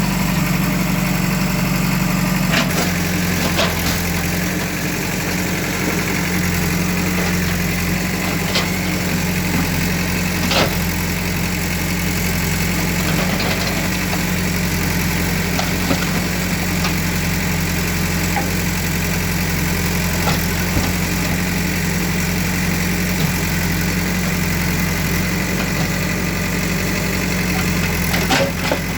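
The engine of demolition machinery running steadily at idle, with a few sharp knocks and clatters now and then.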